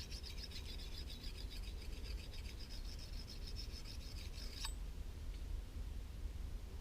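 Fallkniven DC4 pocket whetstone rubbed quickly back and forth along a Cold Steel Rifleman's Hawk tomahawk's edge, a steady scratchy rasp of many fast strokes. It stops with a light click a little over four and a half seconds in.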